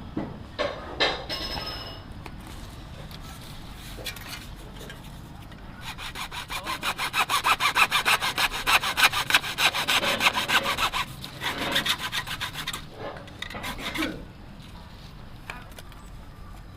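Hand saw cutting with fast, even back-and-forth strokes, about five a second. The strokes start about six seconds in and keep going for about five seconds, with a few looser strokes afterwards.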